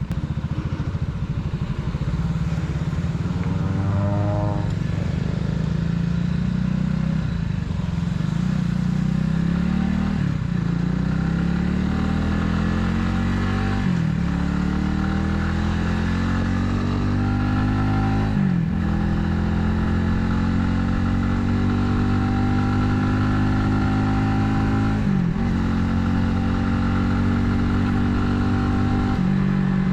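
Italika 250Z motorcycle's single-cylinder 250cc engine pulling under way, its pitch climbing and then dropping sharply at each of five or six gear changes while the rider rides through the gears.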